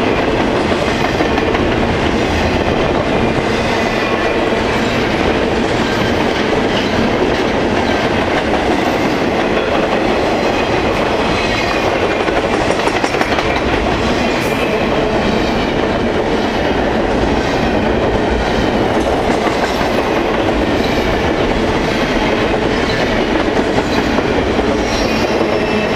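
A freight train's cars rolling steadily past close by, wheels clicking over the rail joints, with faint squealing from wheels on the rail.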